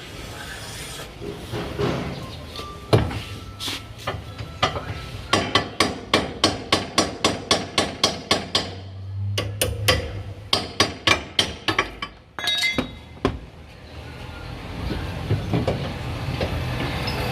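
Hammer blows on metal in a quick, even series, about three to four a second, in two runs with a short pause between them, as a part is knocked loose or into place under the car.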